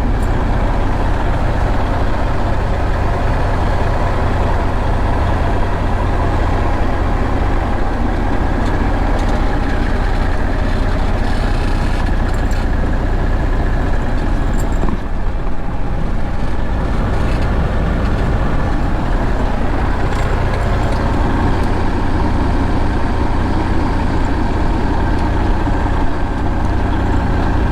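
Semi truck's diesel engine running steadily, a low, even rumble.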